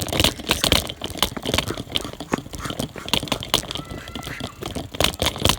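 Rapid, irregular knocking, rattling and rustling close to the microphone.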